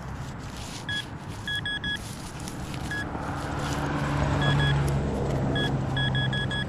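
Metal detector giving short, high beeps at one steady pitch, singly and in quick runs of three to five, as its coil is swept over a buried target. A car drives past, its engine and tyre noise swelling and peaking about two-thirds of the way through.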